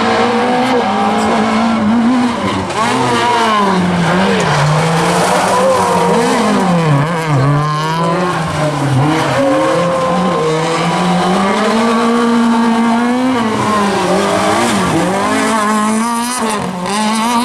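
Small Fiat rally car's engine revving hard, its pitch climbing and dropping back again and again as it is driven flat out.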